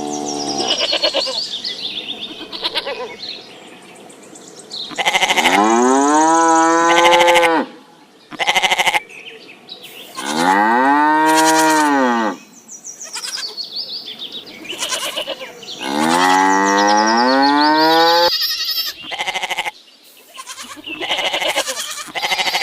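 A cow mooing: three long moos, each about two seconds, that rise and then fall in pitch, with short sharp clicks between them.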